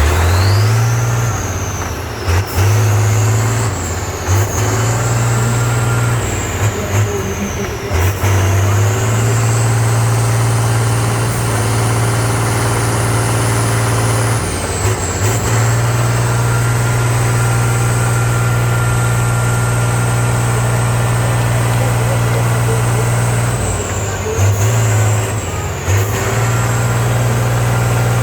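Heavy truck's diesel engine working hard and revving up and down through the whole stretch, with a high whine that rises and falls with the revs. A few brief sharp sounds break in along the way.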